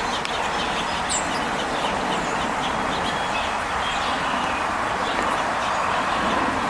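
A steady rushing noise, with a few faint bird chirps over it.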